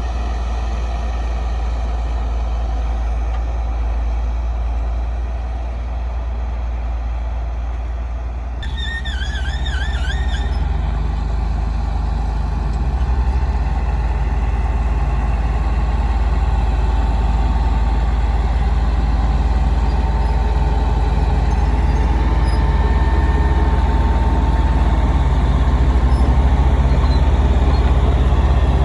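Heavy diesel engine of earthmoving machinery running steadily with a deep rumble, growing a little louder over the span. About nine seconds in there is a brief, wavering high-pitched squeal.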